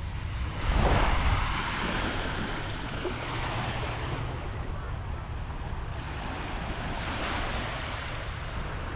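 Surf breaking on the beach: one wave rushes in loudest about a second in and another swells near the end, with wind rumbling on the microphone throughout.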